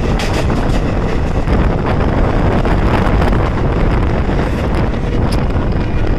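Loud rush of wind and the rumble and clatter of wheels as a passenger train passes close on the next track, heard from the open doorway of a moving train, with heavy wind buffeting the microphone. It cuts off abruptly at the end.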